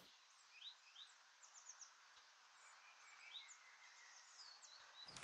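Faint outdoor birdsong ambience: scattered short bird chirps over a steady low hiss.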